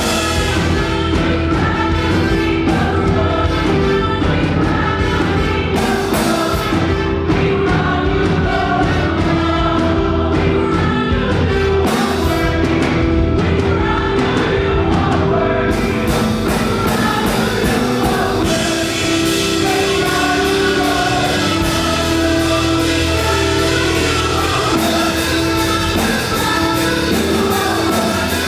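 Live up-tempo gospel worship music: a group of singers with a band. About halfway through, the beat gets busier and brighter.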